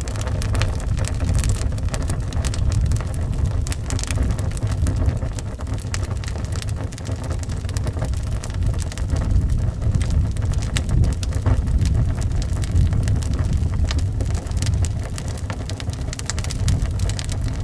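Wood fire crackling, with many sharp pops and snaps, over a steady low rumble of wind.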